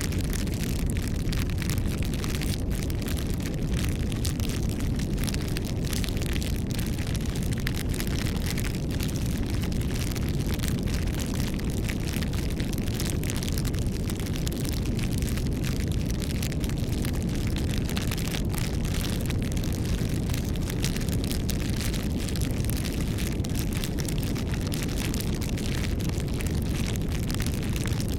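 Campfire burning: a steady low rumble of flames, scattered with frequent small crackles and pops from the wood.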